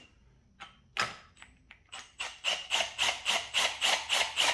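Hand tool working on metal: a few scattered clicks, then from about two seconds in a quick, even run of about five strokes a second.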